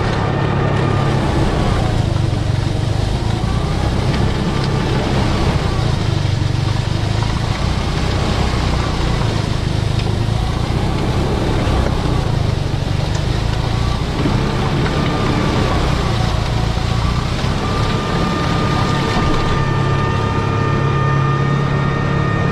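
Kubota M7060 tractor's diesel engine running under load while working a snow bank, its pitch rising and falling repeatedly as the revs change.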